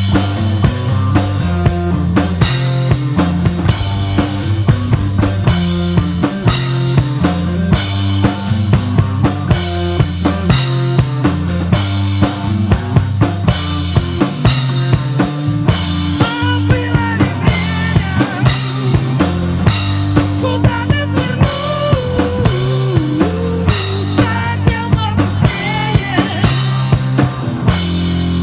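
Live rock band playing an instrumental passage: a drum kit keeps a steady beat over a repeating bass line. About halfway through, a lead melody with bending notes comes in.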